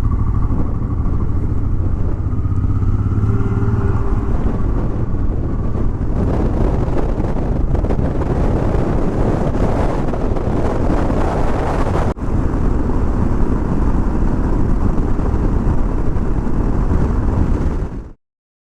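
Motorcycle riding on the road: steady engine sound mixed with wind and road noise that gets heavier partway through, cutting off suddenly near the end.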